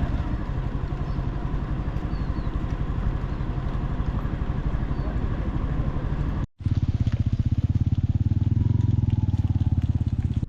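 Motorcycle engine running under way, a steady rapid beat of firing pulses. About six and a half seconds in there is a short dropout, after which the engine sounds louder and deeper.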